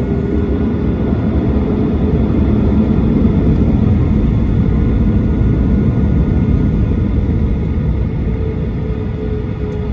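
Boeing 737-800's CFM56-7B jet engines and airflow heard from inside the cabin as a loud, steady low rumble. It swells a little midway and eases slightly near the end.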